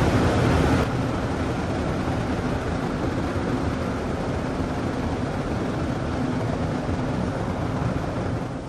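Daifuku TWINFECT FORCE automatic car wash machine running, a steady rushing noise over the car. It steps down in level about a second in and drops again near the end.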